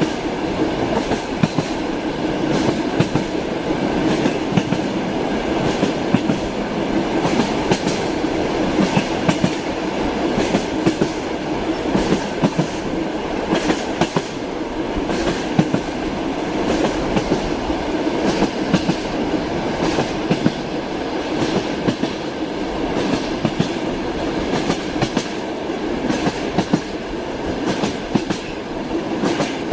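Train wheels clicking over rail joints, with the steady rumble of a moving railway carriage heard from inside. The clicks come frequently and unevenly over the rumble.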